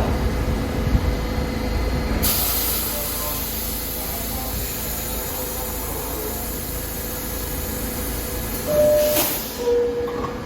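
New York subway train standing at a station platform, releasing a loud steady hiss of air from about two seconds in that cuts off sharply near the end. A two-note falling chime, the door-closing chime, sounds near the end.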